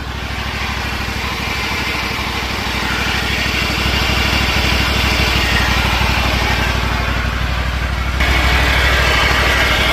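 Exmark 48-inch zero-turn mower running, with an extra noise from underneath coming from the transmission drive pulleys, whose bearings are worn out. The sound steps up louder about eight seconds in.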